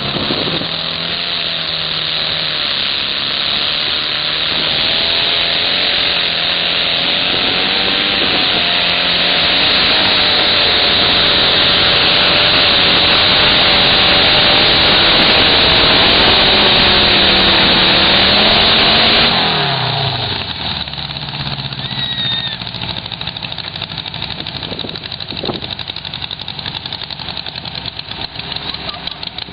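Riding lawn mower engine running hard at high revs under load, its pitch wavering slightly; about two-thirds of the way through the revs fall away and it carries on at a lower, quieter run.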